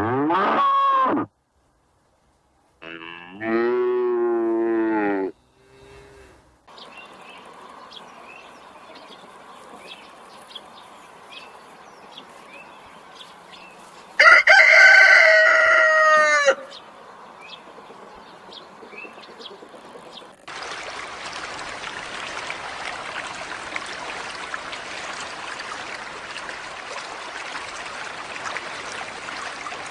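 A string of animal sound effects: a short pitched call at the start, a wavering call a few seconds in, and faint chirping underneath, then a rooster crowing loudly once for about two seconds. About 20 s in, a steady rushing of flowing water takes over.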